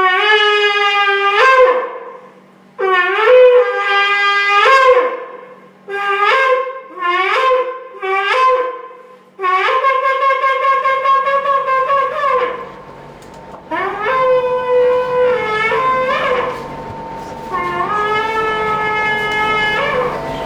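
Ram's-horn shofar blown in a series of blasts, each swooping up in pitch at its end. There are two long blasts, then three short ones in a row, then further long blasts.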